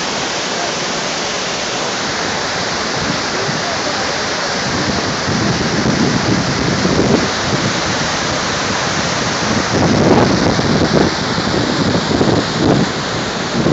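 Saar waterfall in heavy winter flow: a loud, steady rush of falling and churning water. From about halfway in, uneven lower surges swell over it.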